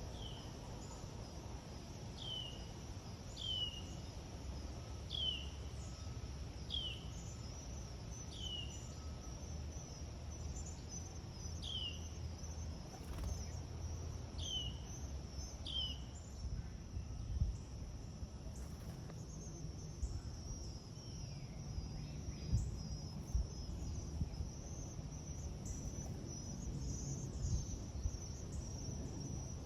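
Steady high insect trill, with a bird giving a short falling chirp every second or two through the first half, over a low rumble.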